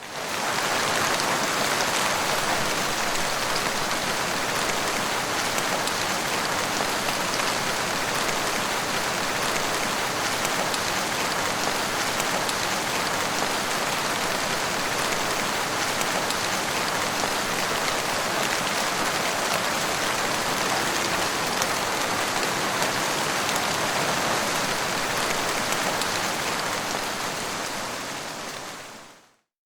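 Steady rain falling, a dense, even hiss of drops, fading out to silence near the end.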